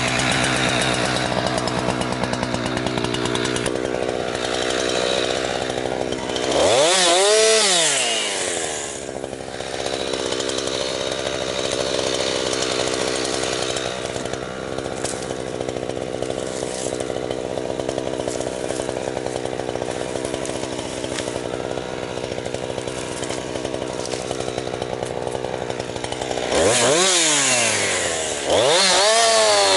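Jonsered 2156 two-stroke chainsaw, running on its rebuilt Walbro HDA199 carburettor, cutting firewood under load. The engine revs up out of the cut and settles back about seven seconds in, and again near the end.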